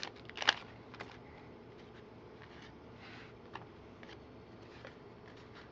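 Trading cards handled and flipped through by hand: a short crisp rustle about half a second in, then faint, sparse soft ticks of cards sliding against each other over a low steady hum.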